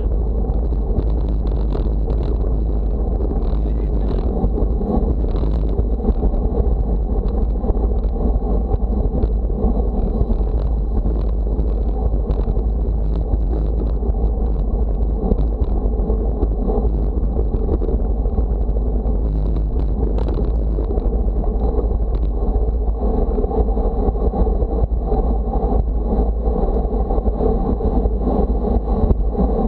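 Steady wind rumble on the microphone, with continuous noise of travel beneath it.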